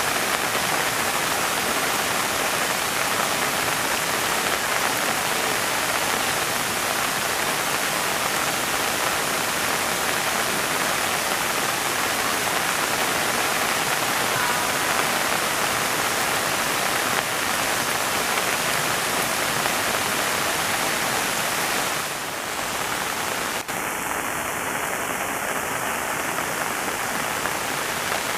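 Heavy rain falling steadily through trees and foliage, a dense even hiss that drops a little in level about 22 seconds in.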